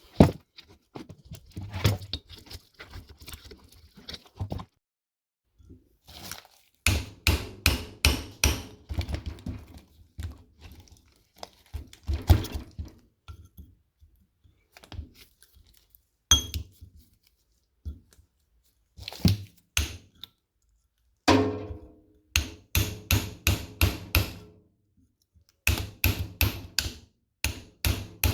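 Metal parts of a microwave oven being knocked, pried and clanked during dismantling: runs of quick sharp knocks and rattles with pauses between them, and one ringing metal clang about twenty-one seconds in.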